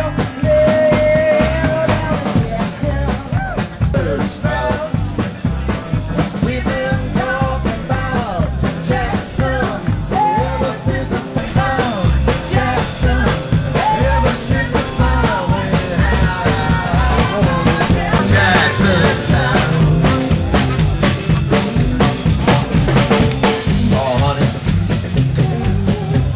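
Upbeat rock music with a drum kit keeping a steady beat.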